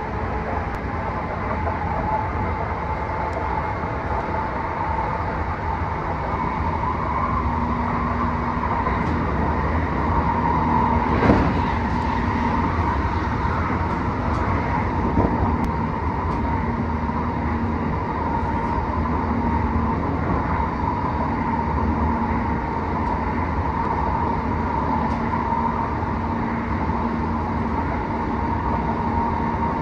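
Tokyo Metro 07 series train running at speed, heard from inside the car: a steady rumble of wheels on rail with a constant whine. There is a single sharp knock about eleven seconds in.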